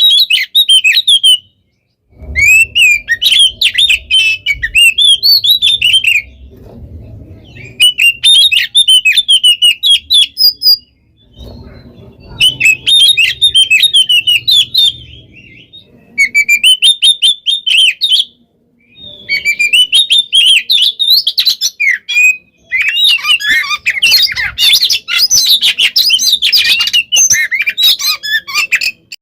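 Oriental magpie-robin (kacer) singing in fast, tightly packed phrases of chirps and whistles. It sings in several bouts broken by short pauses, and the last stretch is the densest and loudest.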